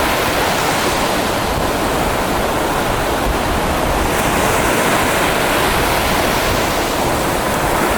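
Mediterranean sea surf with a steady rush of waves, mixed with wind on the microphone.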